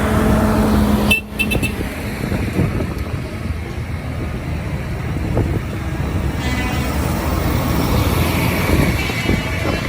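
Tractor engines running on the road, a steady low rumble, with a held low tone in the first second that cuts off suddenly.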